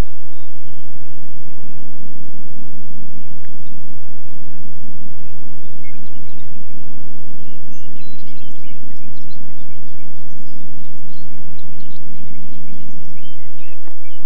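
Birds chirping over a steady low hum, the chirps thickest in the second half.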